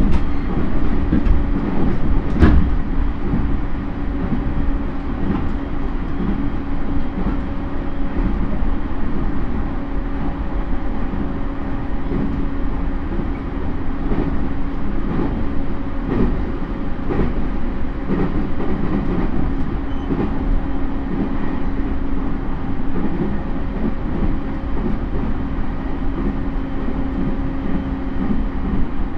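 A JR East E231 series suburban EMU heard from inside its motor car (MoHa E230-3549) while running along the line. The rail noise is dense and even, with a steady hum that holds one pitch throughout and scattered wheel-on-rail knocks. The sharpest knock comes about two and a half seconds in.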